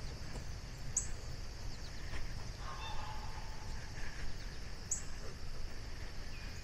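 Outdoor ambience: a short pitched bird call about halfway through and two brief high chirps about four seconds apart, over a steady high insect drone.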